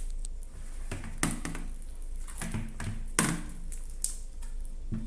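A big mass of slime being handled and tipped out of a large bowl: a handful of irregular sticky squelches and soft knocks.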